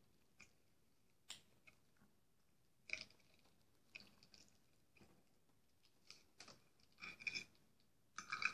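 Faint chewing of kholodets (meat jelly), with scattered small clicks of a metal fork against a ceramic bowl.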